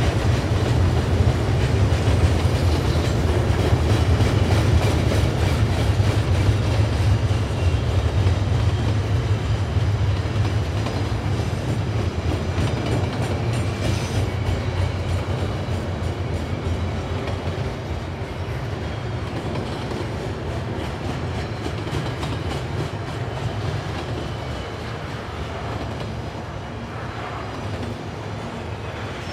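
Freight train rolling past: a steady low rumble of wheels and rail cars that slowly fades.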